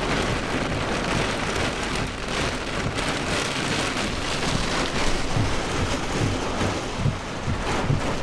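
Heavy wind-driven rain pelting a truck, heard from inside the cab, as storm gusts buffet it. Low gusting rumbles grow stronger from about five seconds in.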